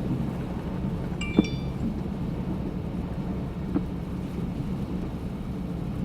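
Steady low rumble of a car cabin while driving on a winter road. A sharp click with a brief high tone comes about a second and a half in, and a fainter knock comes a few seconds later.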